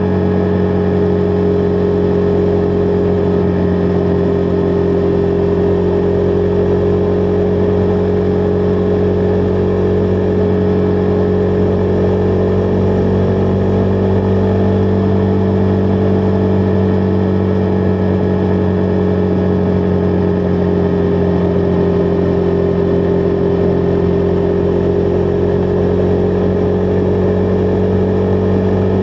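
Husqvarna Vitpilen 401 single-cylinder engine running at a steady cruising speed, its pitch holding nearly level with only slight drift.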